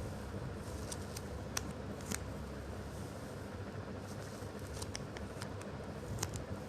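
Sticky foam pressed and peeled by fingertips and nails, giving scattered sharp sticky clicks and crackles over a steady low background hum.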